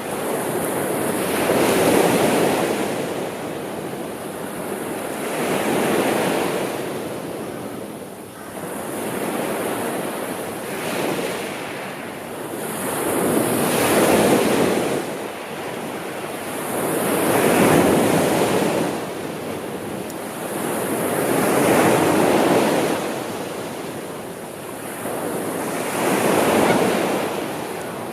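Gentle sea waves washing in and drawing back, swelling and fading in a slow rhythm of about one wave every four seconds.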